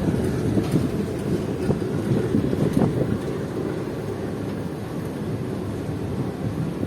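Train running on the track: a steady rumble of wheels on rail with scattered clicks, a little louder in the first three seconds.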